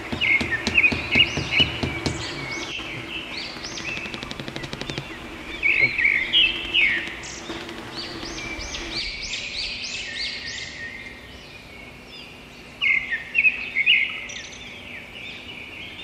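Small songbirds chirping and twittering in quick rising calls, in several bursts with short lulls between.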